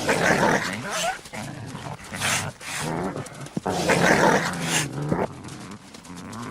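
Coyotes fighting a river otter: snarling and growling in several harsh bursts.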